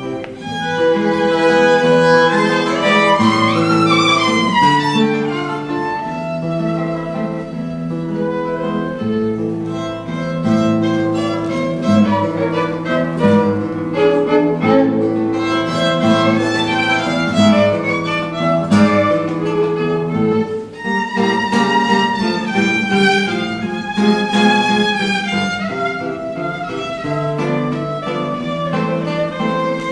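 A violin playing a flowing melody, with slides up and down in pitch, over guitar accompaniment.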